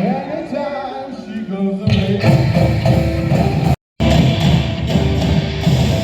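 Samba band playing live: dense drumming with a melodic line or voice over it in the first seconds. The sound drops out completely for a moment a little before the four-second mark, then the drumming carries on.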